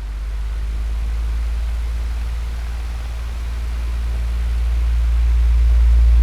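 Electric fan running steadily: a deep low hum under an even, airy hiss, growing a little louder near the end.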